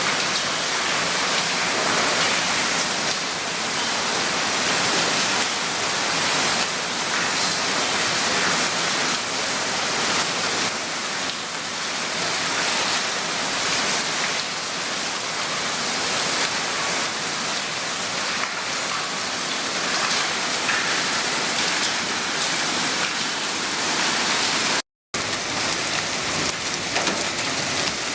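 Heavy cloudburst rain pouring down steadily, cutting out for a split second near the end.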